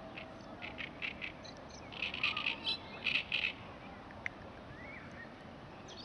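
Bird calls: a run of short, high chirps, densest and loudest about two to three and a half seconds in, over a steady outdoor hiss.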